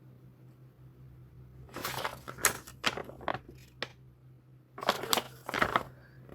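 Paper rustling and crinkling as an instruction manual is handled and unfolded, in two spells of quick sharp rustles, the first starting about two seconds in.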